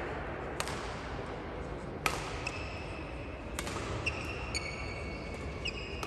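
Badminton rally: sharp racket hits on the shuttlecock about every second and a half, with shoes squeaking on the court floor.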